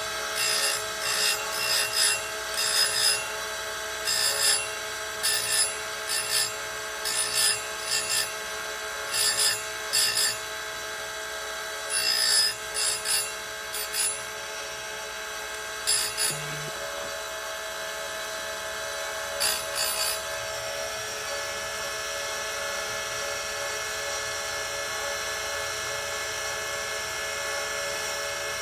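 Oregon 410-120 chain grinder with a CBN wheel running with a steady whine, grinding chainsaw cutters in short bursts of metal contact about once a second, sometimes two close together. The grinding strokes stop about two-thirds of the way in, and only the grinder's motor keeps running.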